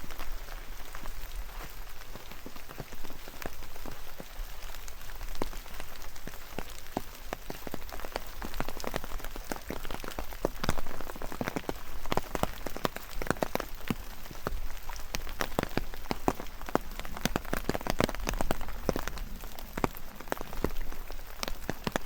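Steady rain, with many sharp raindrop ticks landing close by over a soft hiss, the ticks growing thicker about halfway through.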